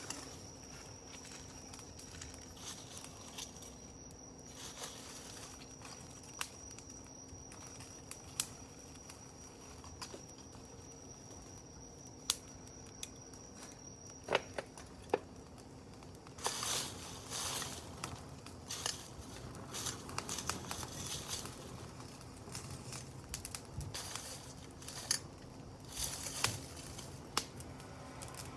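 Campfire burning, with scattered sharp pops and crackles; the crackling grows denser about halfway through.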